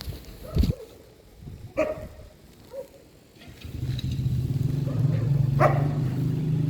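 A vehicle engine running steadily with a low hum, starting a little past halfway. Before it, a few short sharp sounds.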